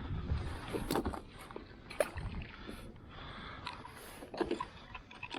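Sounds of a fishing kayak on the water: a few sharp knocks and clicks of gear against the hull over a background of water noise.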